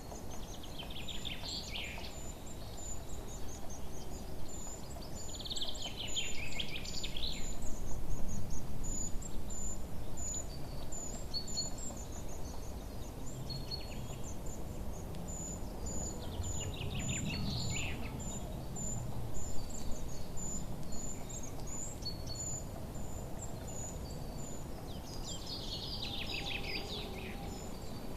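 Songbirds chirping: four bursts of song that trill downward in pitch, over a steady run of short, high, evenly spaced chirps and a low background hiss.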